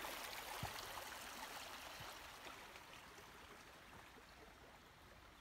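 A woodland stream running, an even rush of water that gradually fades away, with a few faint clicks.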